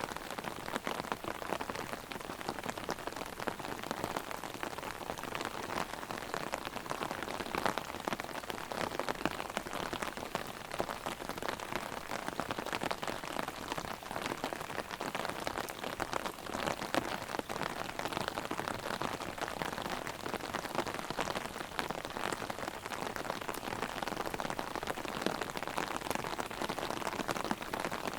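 Heavy rain drumming on an umbrella overhead in a dense, steady patter of countless drops.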